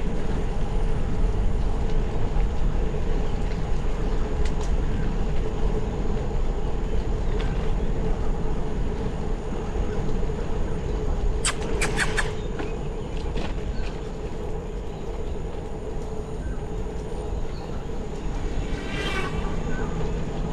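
Steady rumble of wind and road noise from a bicycle ride, with a quick cluster of sharp clicks about halfway through and a brief high-pitched sound near the end.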